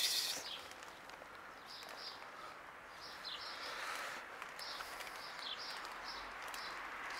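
Small birds chirping in short, scattered high notes over a steady background hiss of outdoor ambience.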